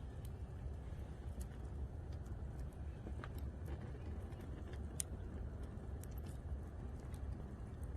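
Wood fire crackling: scattered sharp pops and snaps, the loudest about five seconds in, over a steady low rumble.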